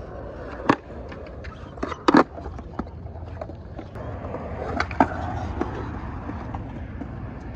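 Skateboard wheels rolling with a steady rumble, broken by a few sharp clacks of the board; the loudest comes about two seconds in, with others near the start and about five seconds in.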